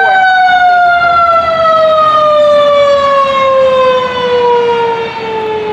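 A siren sounding one long, loud wail whose pitch falls slowly and steadily, as a siren does when winding down.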